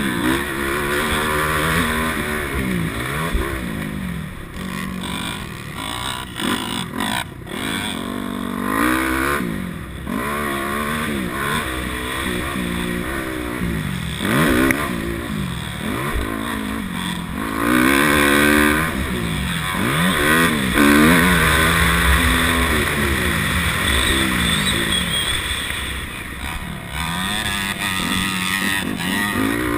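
250 motocross dirt bike engine being ridden hard, its pitch rising and falling over and over as the throttle is opened and shut and the rider shifts gears.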